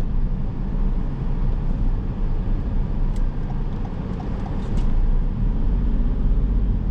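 A car driving on city streets: a steady low rumble of engine and tyre noise, with a few faint ticks.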